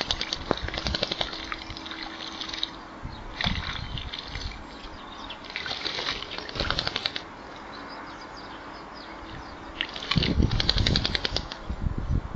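A small bird bathing in a shallow bird bath, splashing with rapid wing flicks in several short bouts. The loudest bout comes near the end.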